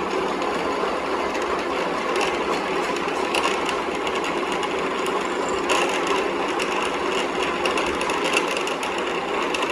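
A machine running steadily with a rapid, fine clatter.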